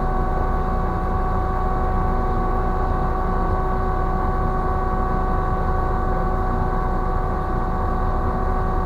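Ship's deck crane machinery running steadily as the crane slews slowly left: a low hum with several steady high-pitched whining tones over it.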